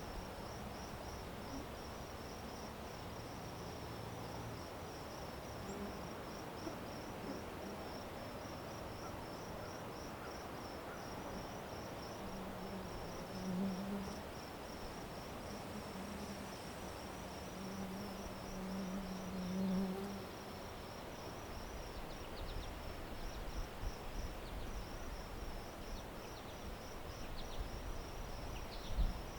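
Crickets chirping in a steady, even pulsing trill. Twice near the middle a low buzz swells and fades.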